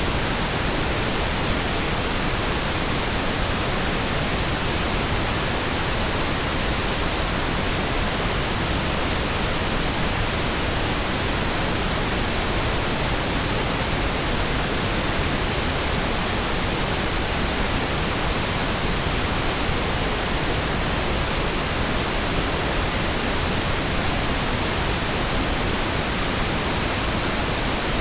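Steady synthetic pink noise: an even, continuous hiss across the whole range, unchanging.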